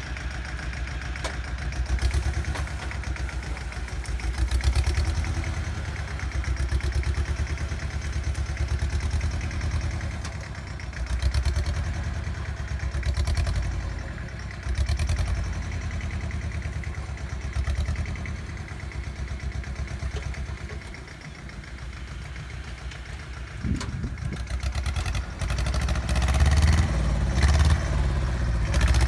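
Bolens G194 garden tractor engine running steadily, its loudness swelling and easing every few seconds as the tractor works a scraper blade through a mound of dirt, louder again near the end.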